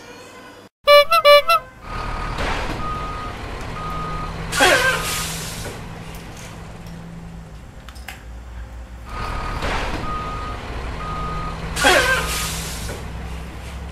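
A short burst of a few bright tones, then a truck reversing: a low engine rumble, a run of reversing beeps, and a loud hiss of air brakes with a falling squeal. The reversing-and-brake sequence is heard twice.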